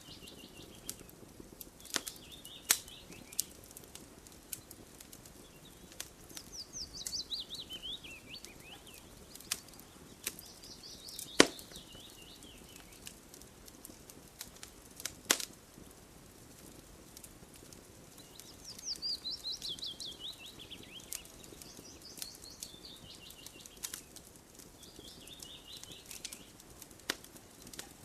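Wood fire crackling, with scattered sharp pops, the loudest about eleven seconds in. A songbird sings a fast descending trill every few seconds.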